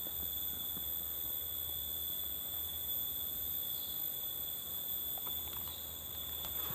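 Forest insects shrilling steadily, several continuous high-pitched tones layered together.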